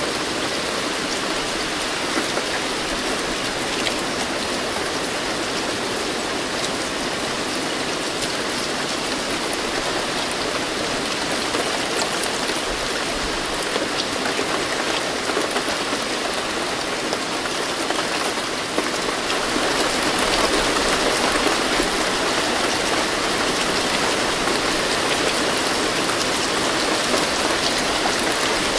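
Steady rain falling on a surface, with scattered drops ticking through it; it gets a little heavier about two-thirds of the way in.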